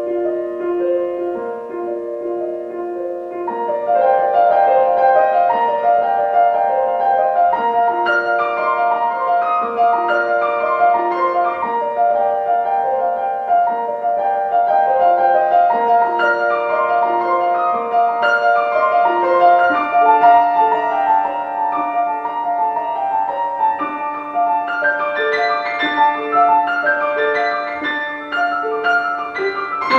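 Solo piano music in a classical style: a lighter passage that fills out into fuller chords about three and a half seconds in.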